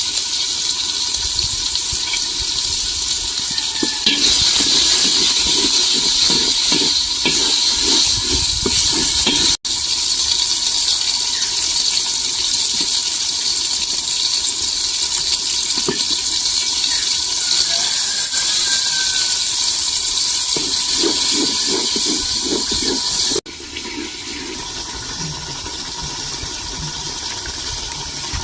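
A steady, loud watery hiss with stretches of low bubbling, cut off abruptly twice.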